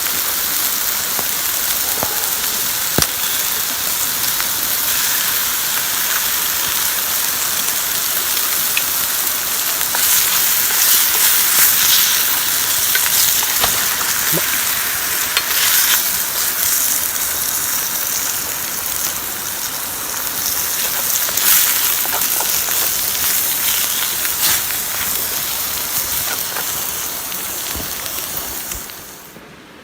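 Food sizzling over a campfire: a steady hiss with scattered small pops and crackles, cutting off suddenly near the end.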